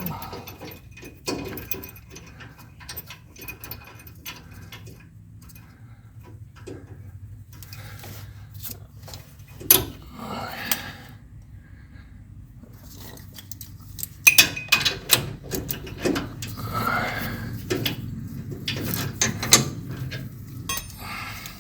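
Irregular metallic clicks and clinks of hand tools and hardware as a nut is worked onto a bolt at a truck's front differential bracket, with a few louder knocks near the middle.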